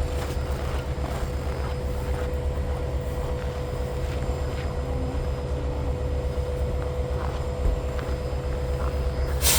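Idling engine: a steady low rumble with a constant hum over it, and a short burst of hiss near the end.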